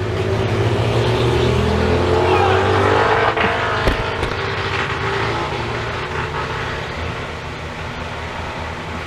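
A passing vehicle's engine revving as it goes by, heard through an open window. It is loudest a couple of seconds in, its pitch rising and falling, then fades as it moves away.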